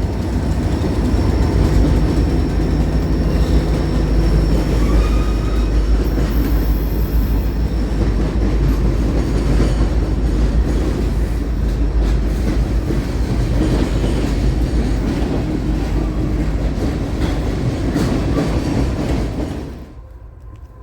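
Train passing close by: a steady heavy rumble of rolling cars with wheels clicking over the rail joints. It drops away sharply about a second before the end.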